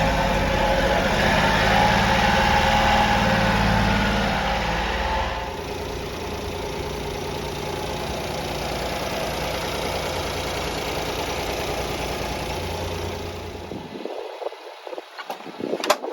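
A 1995 Honda Acty truck's small three-cylinder engine running, louder for about the first five seconds and then settling to a steady idle. Near the end the engine sound stops, followed by a few sharp clicks.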